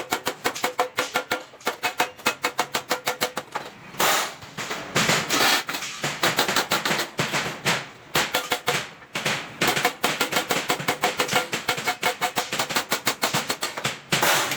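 Rapid hand-hammering on stainless steel sheet, about six blows a second, each blow ringing with a metallic tone. Two short stretches of rougher, hissing noise break in about four and five seconds in.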